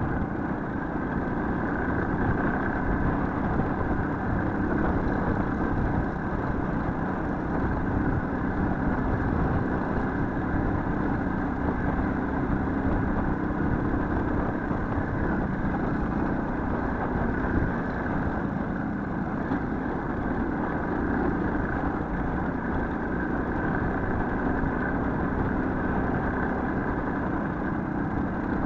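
Motorcycle engine running steadily for the whole stretch, with no big changes in pitch or loudness.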